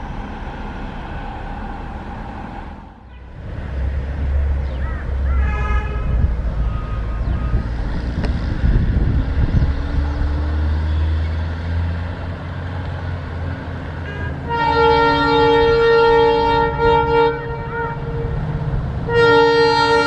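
Railway locomotive horn sounding over a low train rumble: a short blast about five seconds in, then a long blast of several seconds near the middle, and another starting about a second before the end.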